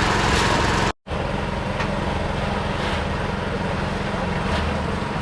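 Small engine running steadily, with the sound dropping out for an instant about a second in before it carries on.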